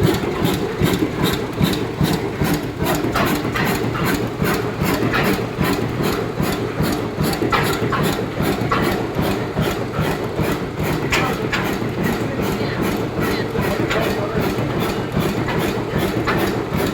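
Ruston Hornsby 7HR oil engine running steadily with an even, regular beat while driving an open-frame dynamo.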